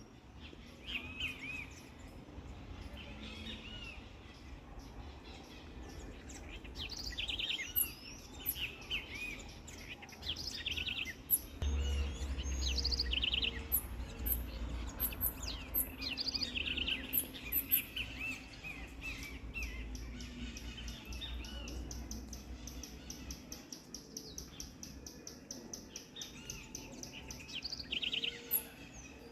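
Several small songbirds chirping and calling in many short, quick notes, with a long, fast, even trill running through the second half.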